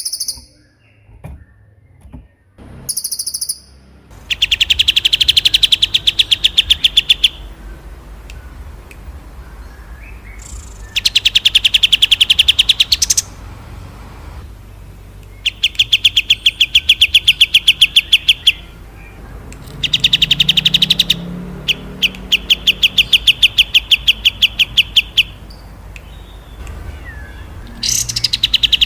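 Small songbird singing a rapid, rattling trill, repeated five times with pauses of a few seconds between. A few short, very high chirps come in the first few seconds.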